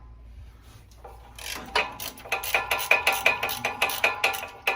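Hand socket ratchet clicking rapidly, about five sharp metallic clicks a second, as a bolt is worked loose; the clicking starts about a second and a half in.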